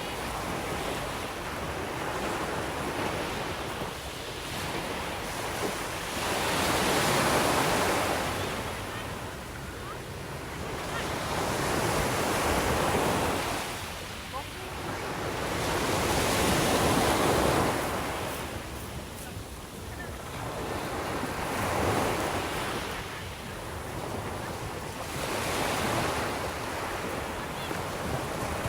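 Sea waves breaking and washing up the shore, swelling and fading in surges every four to five seconds.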